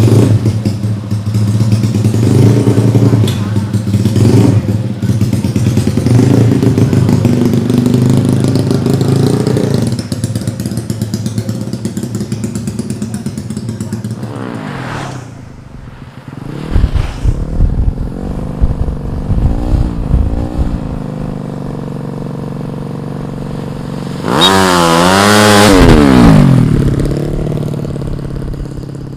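A 130cc drag-racing motorcycle engine being run during tuning. It holds a steady fast idle for about ten seconds, then drops back to a rough, choppy idle with a few short throttle blips. One sharp rev up and back down comes near the end, before it settles to idle.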